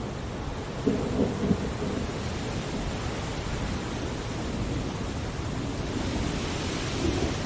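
Steady rainfall, with a short low rumble about a second in.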